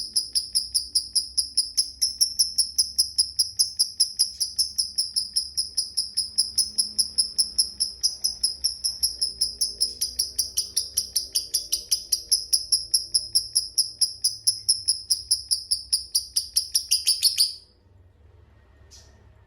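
Lovebird's long ngekek: a rapid, even string of high, sharp chirps, about four a second, kept up without a break and cutting off suddenly near the end.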